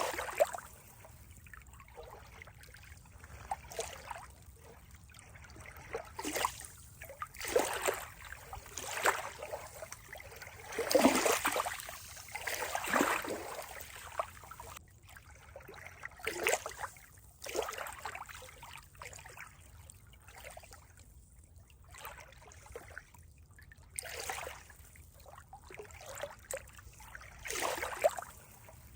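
Water trickling and gurgling in irregular splashes every second or two, with the loudest run of splashing about eleven to thirteen seconds in.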